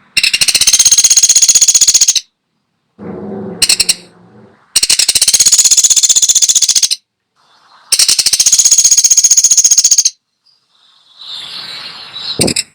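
Woodpecker (pelatuk sampit) giving long, rapid, high-pitched rattling calls, three of about two seconds each, with shorter, softer calls between them.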